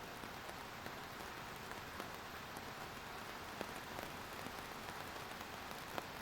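Steady rain falling, an even hiss with scattered individual drops ticking on a hard surface, one sharper drop near the end.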